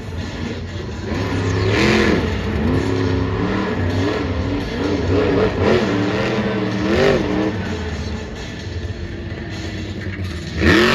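Supercharged alcohol-burning monster truck engine revving hard, its pitch rising and falling with repeated throttle stabs, then a sudden loud burst of throttle near the end.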